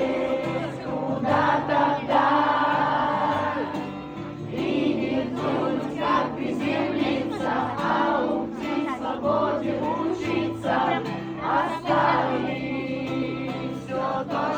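Several voices singing a song together to acoustic guitar accompaniment.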